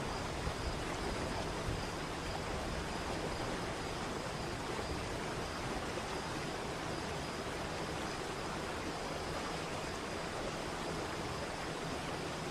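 Waterfall: a steady, unbroken rush of falling water, with a faint steady high tone running under it.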